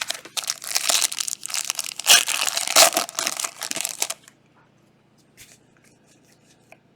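Foil trading-card pack wrapper being torn open and crinkled for about four seconds, followed by a few faint clicks.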